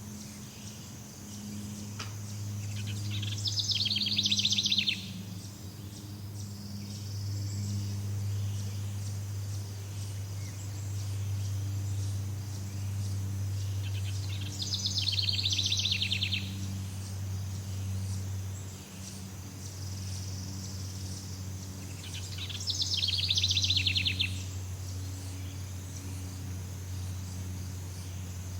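Jungle ambience: a steady high insect chorus over a low, even hum, broken three times by a loud, rapidly pulsed trilling call lasting about two seconds each, near the start, in the middle and about two-thirds through.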